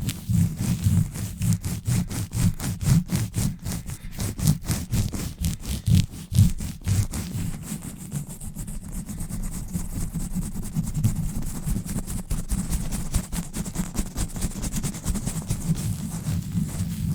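Latex-gloved hands rubbing and scratching directly on a bare microphone, in rapid continuous strokes that are mostly low and deep, with a lighter scratchy hiss on top.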